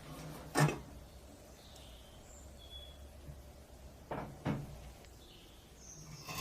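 Three sharp knocks of hard objects being handled, one about half a second in and two close together around four seconds in.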